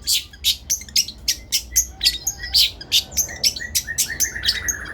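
Long-tailed shrike (cendet) singing loudly: a rapid string of sharp, high chattering notes about four a second, ending in a quick run of short lower notes.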